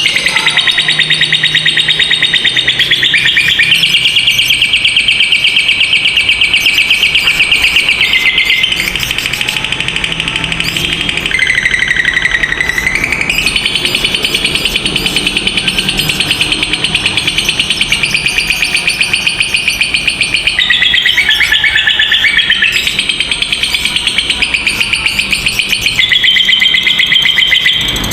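Lovebird's long 'ngekek' call: an unbroken, shrill chattering trill of very fast repeated notes that runs on without pause, shifting pitch a few times and dipping lower briefly midway.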